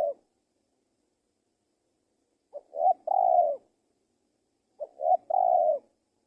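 Male spotted dove cooing: two calls about two seconds apart, each a couple of short notes followed by a longer drawn-out coo.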